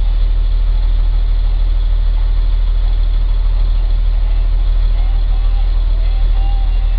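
DAF truck's diesel engine running steadily at low revs, an even deep rumble heard from inside the cab.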